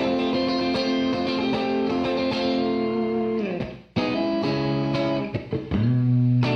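Clean electric guitar played through a Donner Verb Square reverb pedal on its room setting, decay and effects level turned up. A chord rings and fades, cuts off just under four seconds in, then new notes are picked, including low ones.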